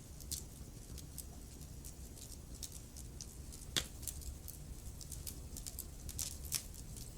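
Wood fire crackling, with many small sharp pops and one louder crack about four seconds in, over a steady low rumble.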